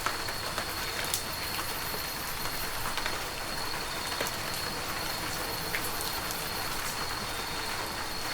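Heavy rain falling steadily, a dense even patter with scattered sharper drop impacts.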